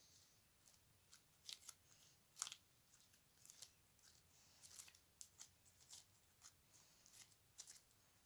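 Slime being handled, with soft, scattered crackles and small sharp pops at an irregular pace.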